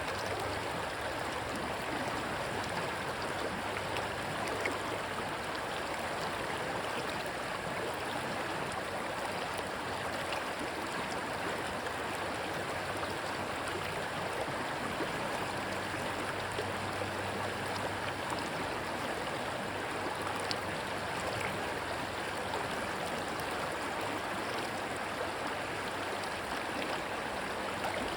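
Steady rushing of stream water, an even wash of sound running over rocks.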